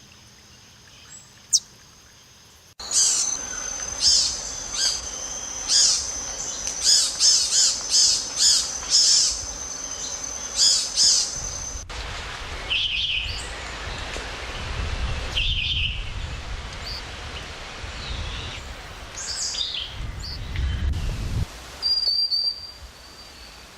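Wild birds calling and singing in several spliced field recordings: a fast series of high, repeated notes over a steady high tone, then spaced calls over a low rumble, then a short high whistle that falls slightly near the end.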